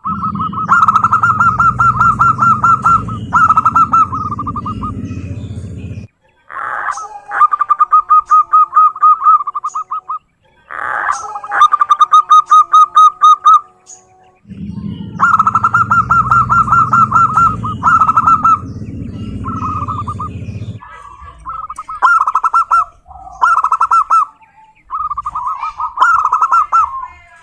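Zebra dove (perkutut) singing: runs of rapid, evenly pulsed cooing notes, repeated several times with short pauses between them.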